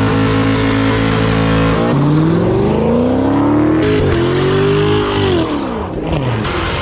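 A V8 car engine running steadily, then revved: its pitch climbs for about two seconds, steps once, holds high, then falls back to a steady idle near the end.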